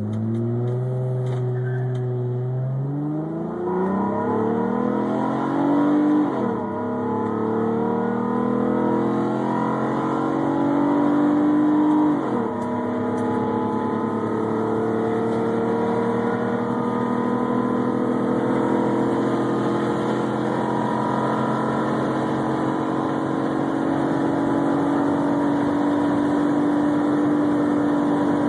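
1998 Honda Accord's 3.0-litre V6 accelerating hard. The engine note climbs in pitch and drops sharply at upshifts about 6 and 12 seconds in, then rises slowly and steadily in the top gear as speed builds.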